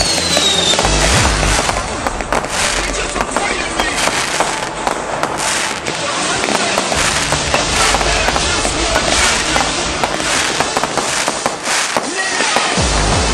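Fireworks going off: a rapid, irregular string of bangs and crackles throughout, with music playing underneath.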